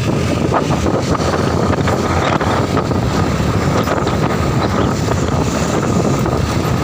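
Loud, steady rushing noise with wind buffeting the microphone, with no clear rhythm or pauses.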